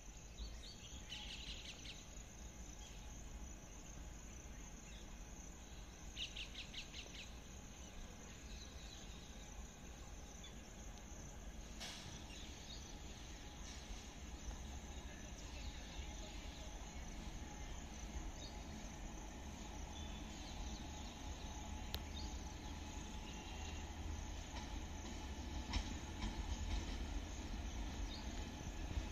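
Low, steady rumble of a distant electric-hauled passenger train approaching, growing slowly louder towards the end, with scattered high chirps over it.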